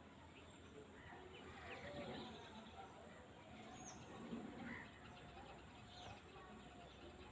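Faint open-country ambience with scattered small bird chirps and a few brief, high, falling whistles over a steady low background hiss.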